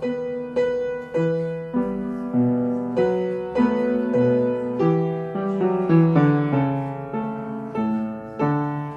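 Piano playing ballet-class accompaniment in a steady, even pulse, with a new chord struck about every half second and each one dying away before the next.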